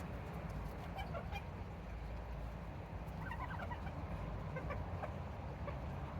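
Serama bantam chickens clucking softly while foraging, with a few short calls about a second in and a cluster around three seconds in, over steady low background noise.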